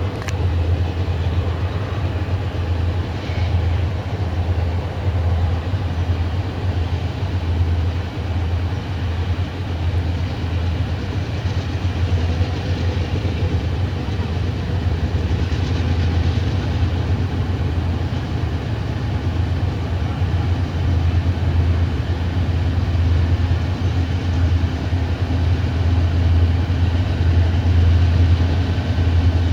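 Diesel-electric freight locomotives pulling a departing train, their engines giving a steady deep drone that grows slightly louder near the end.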